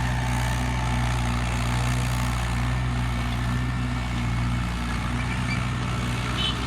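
Tractor engine running at a steady speed with a constant low hum; a little over four seconds in, the low note turns rough and pulsing.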